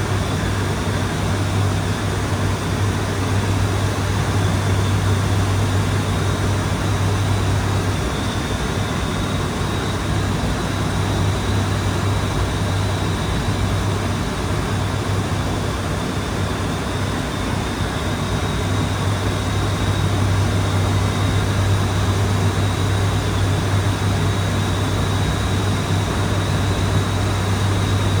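ATR 72-600 turboprop running steadily in flight: a constant low propeller drone over an even rushing of engine and airflow noise, with a faint high whine.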